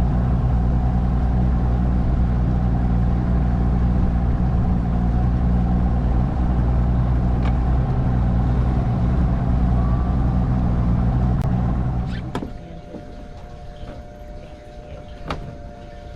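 An engine running steadily with a low, even hum, which drops away sharply about twelve seconds in. A quieter steady hum and a couple of sharp clicks follow.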